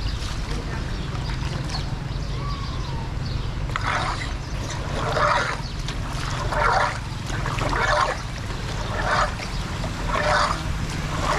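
Water splashing and sloshing in a run of even strokes, about one every second and a quarter, starting about four seconds in, over a steady low rumble.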